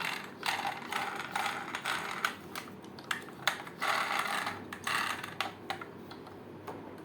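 Plastic toy fire truck being handled and moved, a run of rattling and clicking over about five seconds that dies away near the end.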